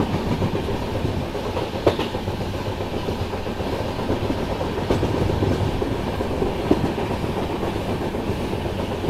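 Passenger train running along the track, with a steady rumble and a few sharp clicks of the wheels passing over rail joints.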